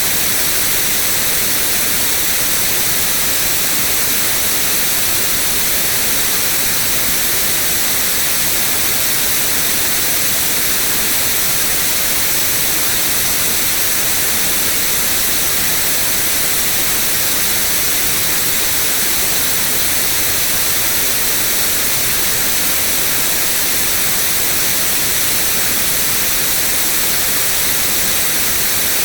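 Steady synthetic white noise: an even, unchanging hiss across all pitches, heaviest in the highs.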